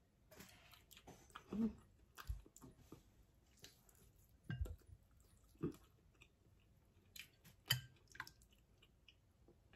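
Close-up chewing and mouth sounds of a person eating rice and pork by hand, with irregular short smacks and clicks, a few of them louder.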